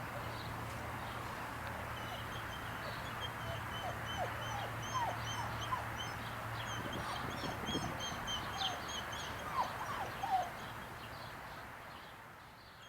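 Birds chirping in the background, many short high calls over several seconds, with a few short squeaky calls in between. Under them runs a low steady hum that stops about two-thirds of the way through.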